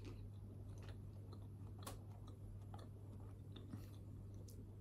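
Faint chewing of a jelly bean: scattered soft, wet mouth clicks over a low steady hum.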